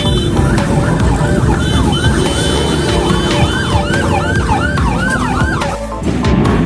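A siren sounding a fast yelp, its pitch rising and falling about three times a second, over loud background music. The siren stops shortly before the end.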